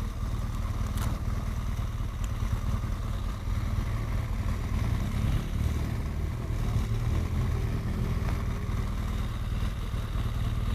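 Motorcycle engine idling steadily with a low, even pulse, and a single click about a second in.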